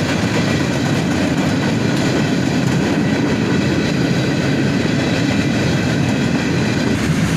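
Freight cars of a passing CSX manifest train rolling by: a steady, continuous rumble of steel wheels on the rails.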